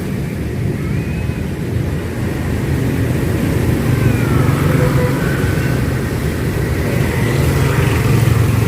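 Busy street traffic: a steady rumble of passing motorbikes and cars, with engine notes rising and falling as they go by.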